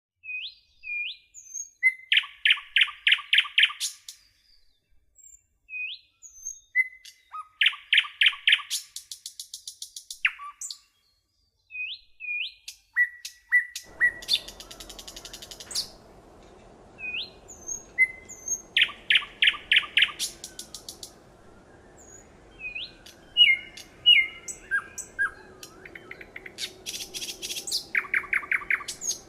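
Songbird singing in repeated phrases: short rising whistled notes, each phrase breaking into a fast, even run of chirps. A faint steady background hiss comes in about halfway.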